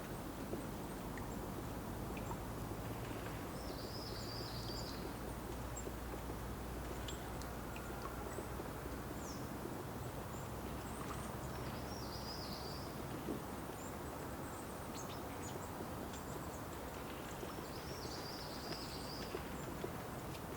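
Steady outdoor background noise with a low hum, over which a small bird repeats a short, high chirping phrase three times, about seven seconds apart, with a few faint high ticks in between.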